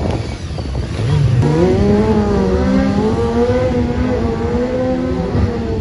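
Stunt motorcycle engine revving up about a second in, then held at high revs with small wavers in pitch, as when a wheelie is being held on the throttle.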